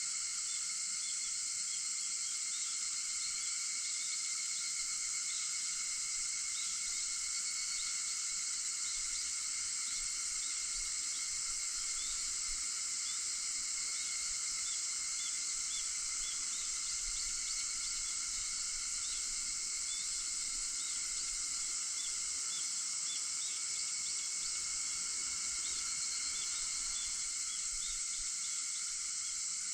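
Cicadas singing in a steady, dense chorus, with faint short chirps repeating over it.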